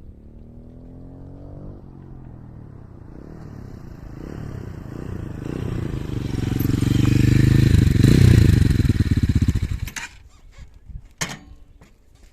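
Motorhead Scrambler 250 motorcycle on its stock exhaust riding past. The engine grows louder, is loudest about eight seconds in, then drops away sharply about ten seconds in.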